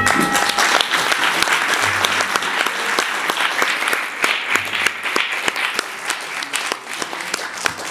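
Theatre audience applauding at the end of a song, the clapping slowly dying down toward the end.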